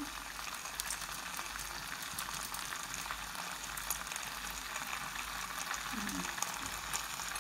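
Aloo dum (spiced potato curry) sizzling softly in a pan on the stove: a steady hiss with fine small pops.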